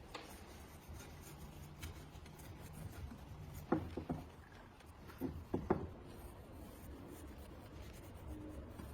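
Light rubbing or scraping. Two small clusters of short knocks come about four and five and a half seconds in.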